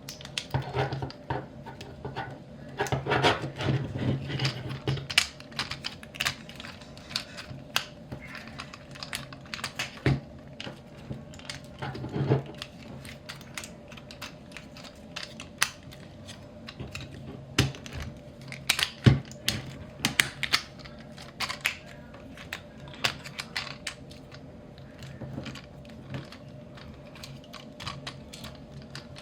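Hard plastic parts of a Transformers action figure clicking, snapping and rubbing as they are handled and transformed by hand: many irregular sharp clicks, busiest a few seconds in.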